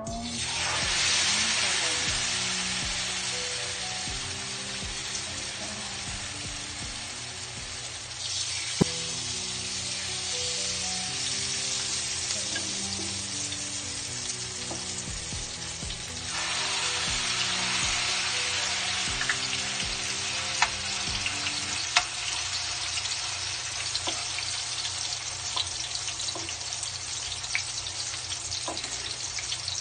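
Battered grilled eggplant frying in hot oil in a pan: a steady sizzle that surges sharply three times, at the start, about eight seconds in and about sixteen seconds in, as each battered piece is laid into the oil. A few light clicks come through the sizzle.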